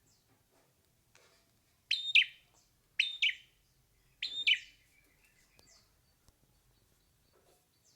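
Hair-crested drongo calling: three loud, sharp calls about a second apart, starting about two seconds in, with faint short falling chirps between them.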